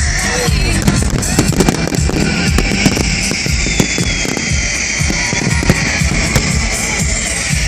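Fireworks bursting in a rapid string of sharp bangs and crackles, thickest in the first few seconds, with music playing at the same time.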